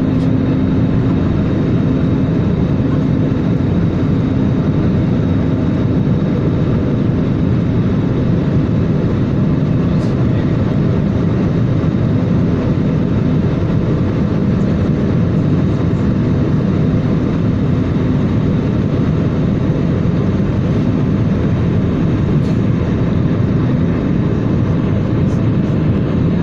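Steady, unbroken drone of a passenger airliner heard inside the cabin in flight, deepest sounds loudest.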